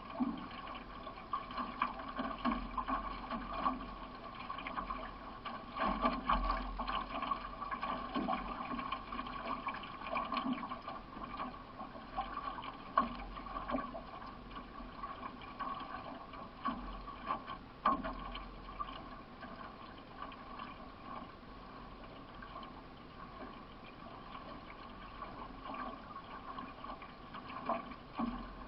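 Solo racing canoe under way: paddle strokes and water splashing and rushing along the hull, with irregular louder splashes.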